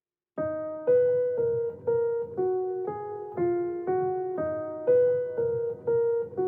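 Background music: a piano-like keyboard plays a steady run of chords, about two a second, each note ringing and fading before the next. It begins about half a second in, after a brief silence.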